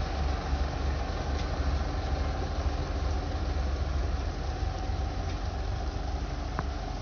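Heavy decorated trucks' diesel engines running slowly at near idle, a steady low rumble, with a brief faint high tone about six and a half seconds in.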